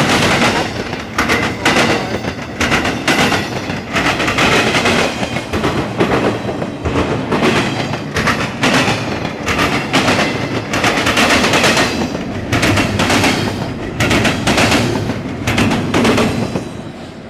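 Norfolk Southern intermodal freight train rolling past close by, its wheels clattering and banging in a rapid, irregular run of loud knocks over a steady rumble. The noise drops away sharply near the end.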